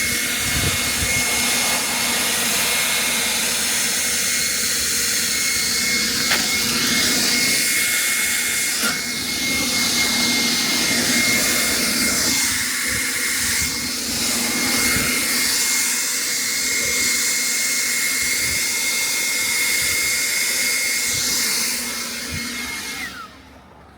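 Leaf blower running steadily, blowing snow off a car: a rush of air under a constant high whine. Near the end the whine drops in pitch as it winds down and stops.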